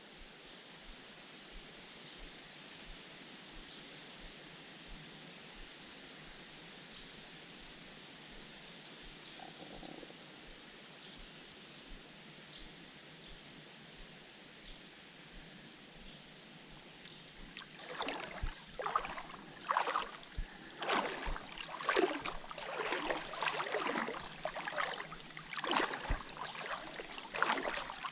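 Crickets trilling steadily in a single high tone. About eighteen seconds in, irregular water splashing and sloshing starts and keeps on, much louder than the insects.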